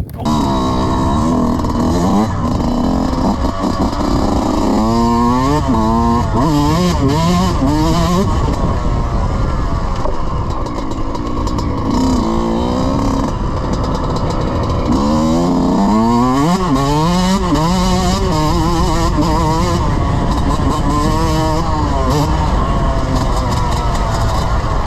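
Dirt bike engine ridden hard, its revs climbing and dropping again and again with the throttle and gear changes, with quick runs of rising revs around five to eight seconds in and again around fifteen to eighteen seconds.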